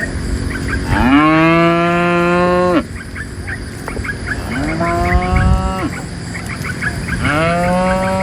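Cattle mooing: three long calls. The first starts about a second in, is the loudest and longest at nearly two seconds, and cuts off sharply. The last runs on past the end.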